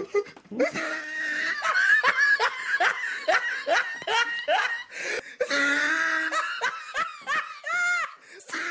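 Hearty human laughter, with a long run of quick, rhythmic 'ha-ha' bursts, about two or three a second, in the middle.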